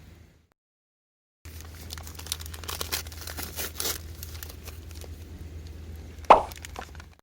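Knife whittling a piece of driftwood: a run of scraping, tearing cuts as shavings come off. There is one sharp, loud knock near the end.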